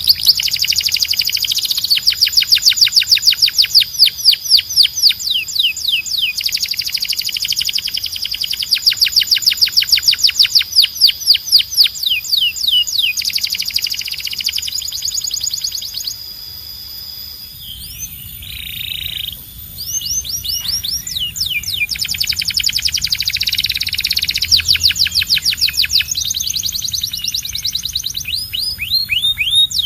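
Canary singing long, fast trills: rapid runs of repeated sweeping notes strung into phrases, with a brief lull about two-thirds of the way through before the trilling resumes.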